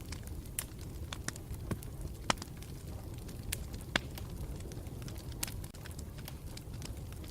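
Campfire burning with a steady low rumble and irregular sharp crackles and pops, two louder pops a little under two seconds apart near the middle.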